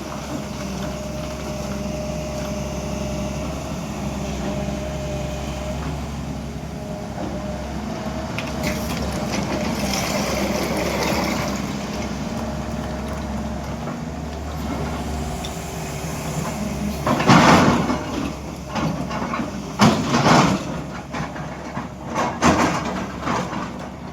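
Hydraulic excavator's diesel engine running steadily with a level hum. About two-thirds of the way through come several loud, sudden bursts of scraping and knocking as the machine works.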